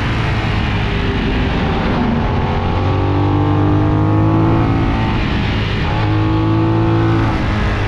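Benelli 752S parallel-twin motorcycle engine running under way, its pitch stepping up and down a few times as the throttle changes, with steady wind and road rush.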